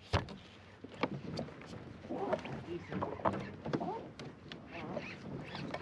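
Water sloshing against a fishing kayak's hull, with scattered sharp clicks and knocks from gear on board.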